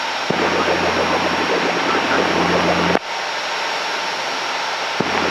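Piper Lance's engine and propeller running steadily in flight, heard as a steady cabin drone over the headset audio. The background changes abruptly about a third of a second in, about three seconds in and about five seconds in, as the radio or intercom is keyed and released.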